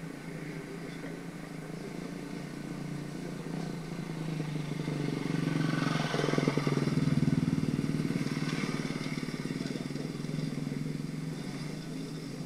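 Enduro dirt bike engine running as it approaches and passes, growing louder to a peak about seven seconds in and then fading away.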